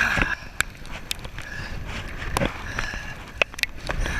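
Wind rumbling against the microphone on a kayak in choppy water, with scattered sharp knocks and splashes from paddling.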